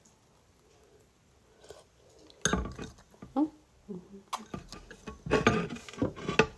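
Dishes and cutlery clinking and knocking on a table, a quick run of sharp clinks starting about two and a half seconds in.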